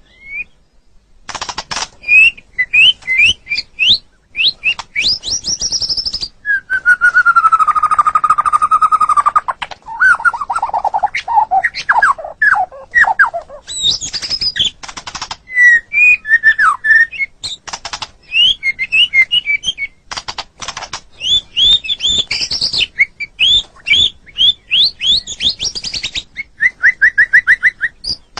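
White-rumped shama (murai batu) singing a loud, varied song of quick rising and falling whistled notes mixed with harsh clicking chatter. A long whistle slides down in pitch about a quarter of the way in, and a quick run of repeated notes comes near the end.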